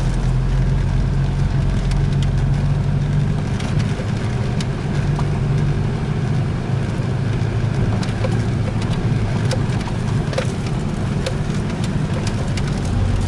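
Vehicle engine running steadily at low speed, heard from inside the cab as a low drone. Scattered small knocks and rattles come through as the vehicle rolls over a rough dirt track.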